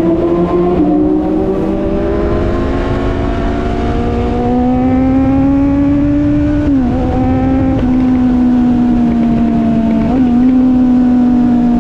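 Sport motorcycle engine under way. Its revs climb slowly for several seconds, drop sharply with an upshift about seven seconds in, then hold nearly steady, over a low rumble of wind on the microphone.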